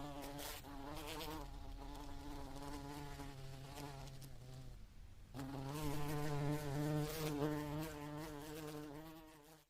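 Italian honeybees buzzing close to the microphone: a wavering hum that dips about five seconds in and comes back louder.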